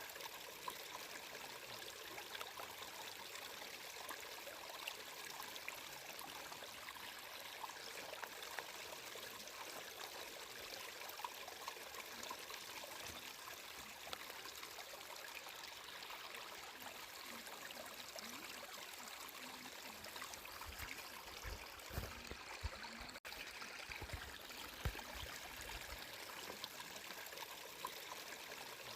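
Flowing water running steadily, an even rush with fine trickling and splashing. A few short low rumbles come in about three-quarters of the way through, with a momentary dropout among them.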